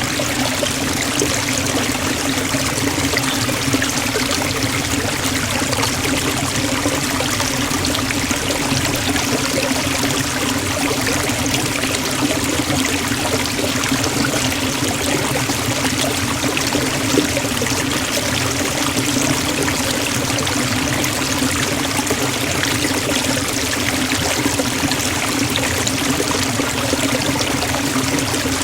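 Forest waterfall and stream: steady rushing and splashing of falling water, unchanging throughout.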